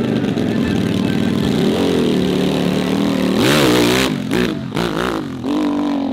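Dirt bike engine revving, its pitch rising and falling, swelling loud about three and a half seconds in and then going choppy with short throttle blips.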